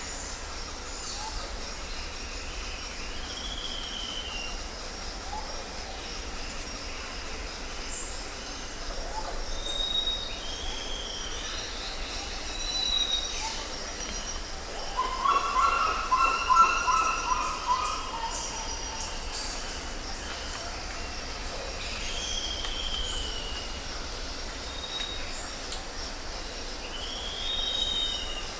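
Jungle ambience: insects buzzing steadily at a high pitch, under short arched bird whistles that recur every few seconds. A louder, chattering call with several stacked tones stands out a little past halfway.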